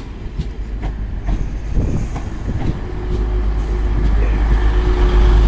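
A Class 185 diesel multiple unit running past along the platform, its rumble and a steady hum getting louder from about halfway through.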